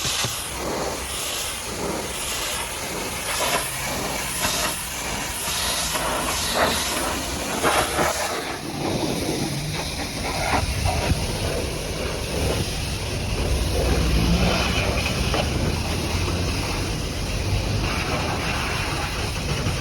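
High-pressure water jet hissing as it is sprayed over a muddy truck, surging and fading as the jet sweeps back and forth. About eight seconds in the hiss turns duller and a low rumble comes up under it.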